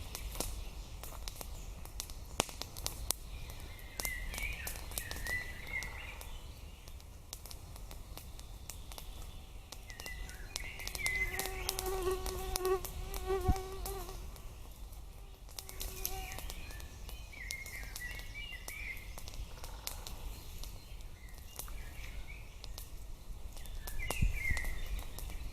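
A flying insect buzzing close by for a few seconds near the middle, with short chirps every few seconds and scattered light clicks.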